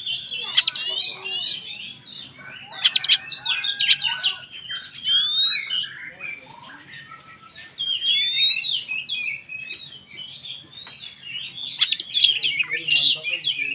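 Oriental magpie-robin (kacer) singing energetically: a varied song of quick whistled notes, rising whistles and sharp chattering clicks, delivered in bursts every couple of seconds.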